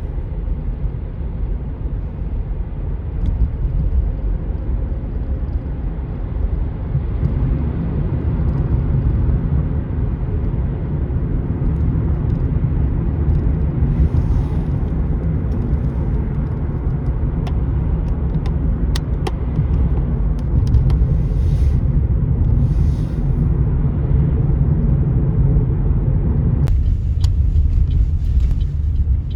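A steady, loud low rumble with an even hiss above it; near the end the higher part of the noise drops away abruptly.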